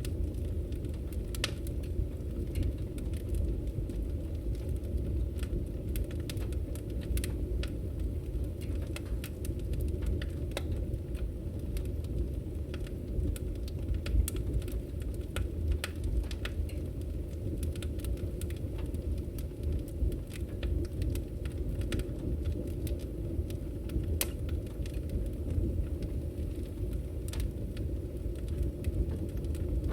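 Firewood burning in a fireplace, crackling with many irregular sharp pops and snaps over a steady low rumble.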